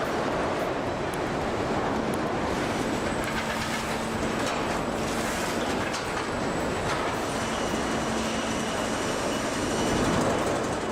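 Heavy machinery running steadily, a dense rattling noise with a faint constant hum.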